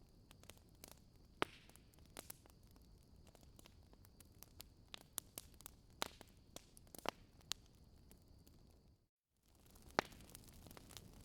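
Wood fire crackling: irregular sharp pops and snaps over a low hiss, broken by a brief gap of silence a little after nine seconds.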